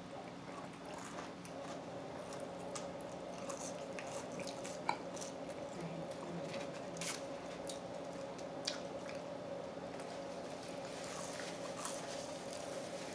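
Chewing and wet mouth sounds of people eating buffalo chicken wings: scattered smacks and clicks as meat is stripped from the bone, over a steady low hum.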